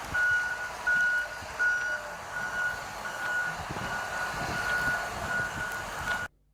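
A truck's reversing alarm beeps at a steady, even rhythm over engine and road noise. The sound cuts off abruptly near the end.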